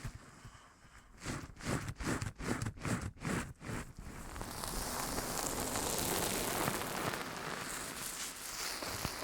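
A quick run of short, soft rustling strokes, about two or three a second, gives way about four seconds in to a steady, even hiss like falling rain.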